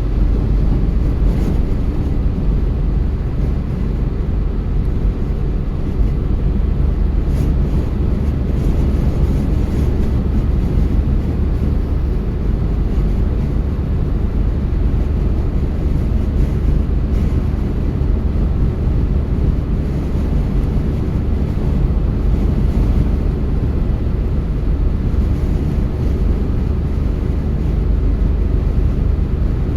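A car driving along the road: a steady low rumble of tyre, road and engine noise.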